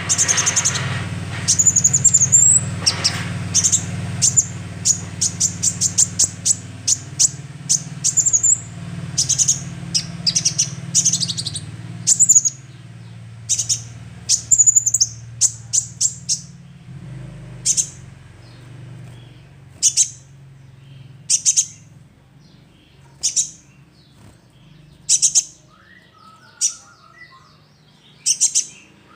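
Young sunbird calling: high, sharp chirps in quick runs for the first dozen seconds, then single chirps about a second or two apart, played as a lure call to get other birds singing.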